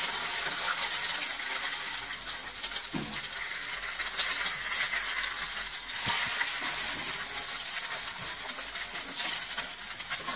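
Squares of cold cooked rice and a duck egg frying in hot oil in a nonstick pan, sizzling and crackling steadily, with a couple of light chopstick taps against the pan.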